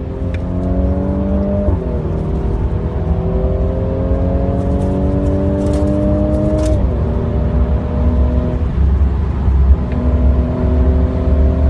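2017 Mercedes-AMG C43's twin-turbo V6 accelerating under load, the exhaust note climbing slowly in pitch and dropping sharply at upshifts about two seconds in and again about seven seconds in. After a short lull near nine seconds it runs steady again over a heavy low rumble.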